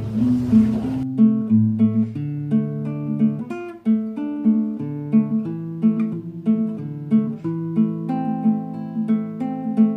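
Acoustic guitar music: a steady run of plucked notes over a repeating low note. A hiss lies under it for about the first second, then cuts off, leaving only the guitar.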